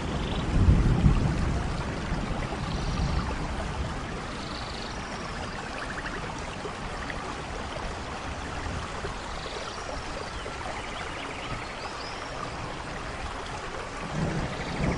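Steady rainfall, with a low rumble of thunder about a second in and another building near the end.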